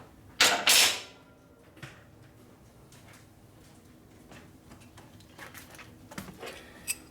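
Metal clatter of hand tools and parts being handled: two loud scraping clanks about half a second in, then light clicks and clinks near the end.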